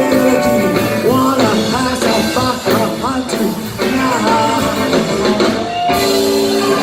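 Rockabilly band music with a wavering vocal line over it.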